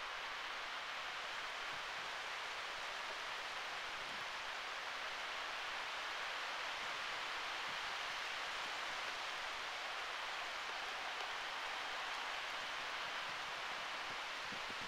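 Steady hiss of thunderstorm rain and wind in the trees, constant and even throughout.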